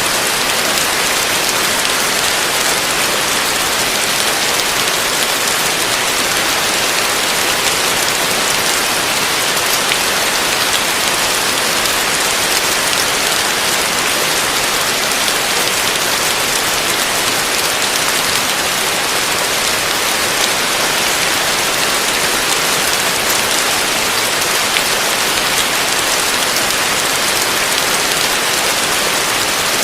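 Heavy rain falling steadily: a dense, even hiss with a fine patter of drops and no thunder.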